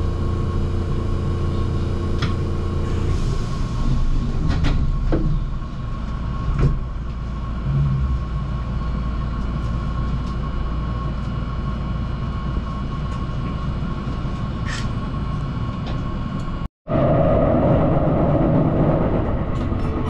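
Inside a Keihan commuter train standing at a station: the steady hum of the train's onboard equipment, a lower hum dropping out about three seconds in, with a few faint clicks. After an abrupt cut near the end, the louder steady rumble of the train running along the line.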